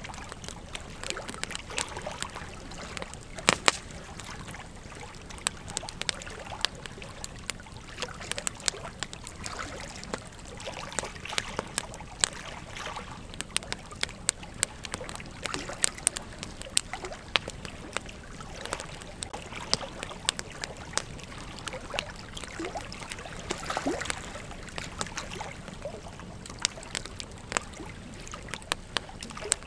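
Wood fire crackling, with irregular sharp pops over a steady soft hiss; one louder pop about three and a half seconds in.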